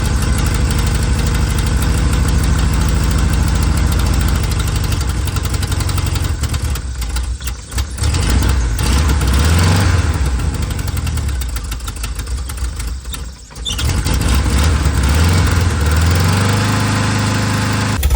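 Volkswagen Vanagon engine running unevenly. Twice its speed sags almost to a stall, then picks back up and revs. The owner thinks the rough running calls for a complete tune-up.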